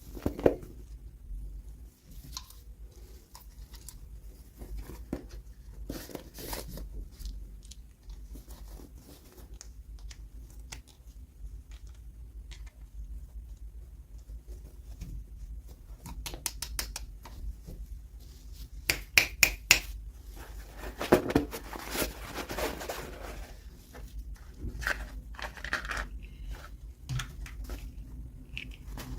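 Hands opening and handling toy packaging: scattered small clicks and taps, with crinkling and tearing of packaging. There are quick runs of clicks about two-thirds of the way through, followed by a longer rustle.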